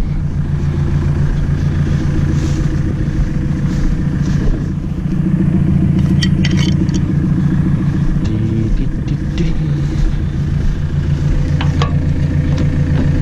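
A farm tractor's engine running steadily, picking up slightly about five seconds in, with a few light metallic clinks around it.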